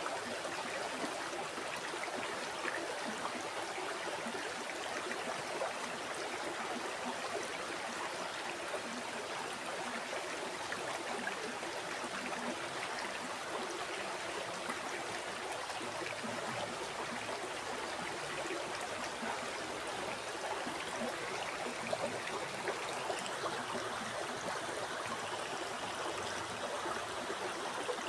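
River water flowing over stones: a steady babbling and gurgling rush.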